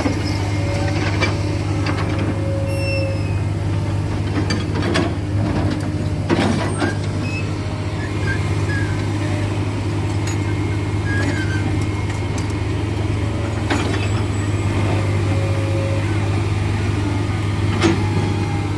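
Heavy diesel engine running steadily, with a few sharp knocks and clanks.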